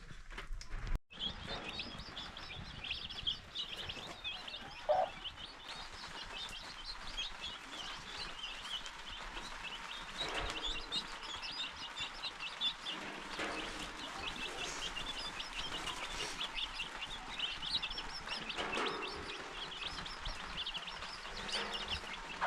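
Many birds chirping in a dense, rapid run of short high calls, with a few lower calls now and then.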